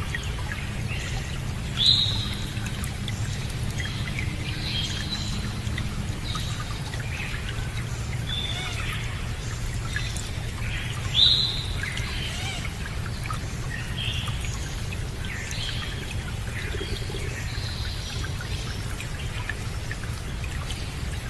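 Songbirds chirping and calling over a steady rush of running water. Two louder sharp calls stand out, about two seconds in and again about eleven seconds in.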